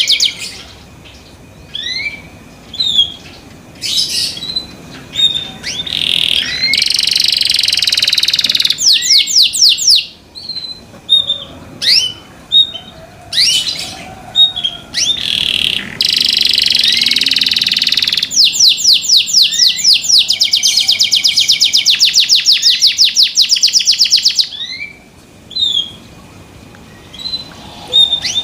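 Canary singing: long phrases of rapid repeated trill notes and dense buzzing rolls, broken by short pauses filled with brief rising chirps.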